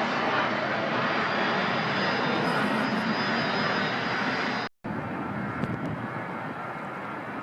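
Airliner engines running loud and steady as a rumbling rush with a thin high whine. The sound cuts off abruptly about two-thirds of the way in and gives way to a quieter steady rumble.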